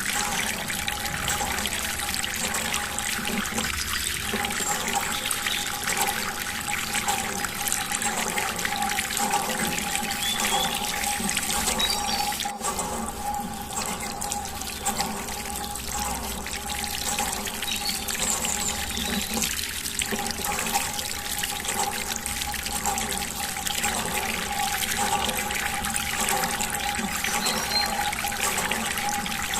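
Water running and splashing steadily, over a faint steady hum.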